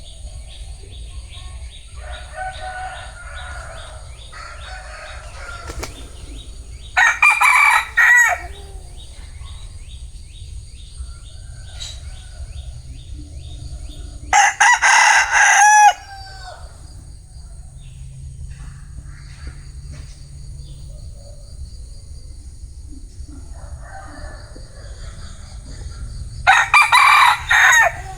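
Bantam rooster (Vietnamese gà tre) crowing three times, each crow loud and lasting about a second and a half, with softer calls in between. A steady high-pitched hum runs underneath.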